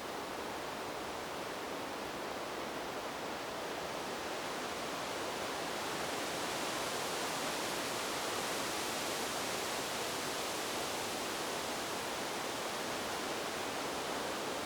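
Wind blowing through a bamboo grove: a steady hiss of moving air and leaves that swells and brightens about five seconds in.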